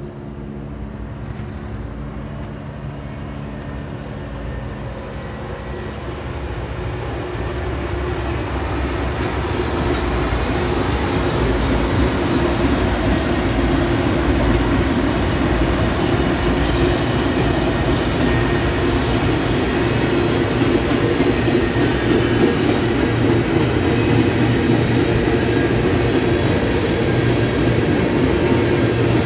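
BNSF freight train's lead GE diesel locomotives (ET44C4 and ES44DC units) approaching with a steady engine drone that grows louder, then passing. They are followed by the steady rumble and clatter of freight cars rolling over the rails.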